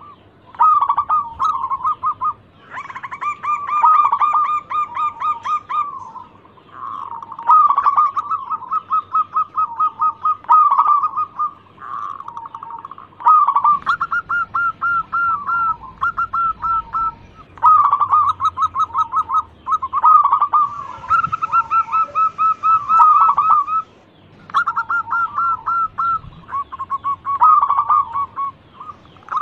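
Zebra dove (perkutut) singing, one phrase of quick rippling coos after another with short pauses in between.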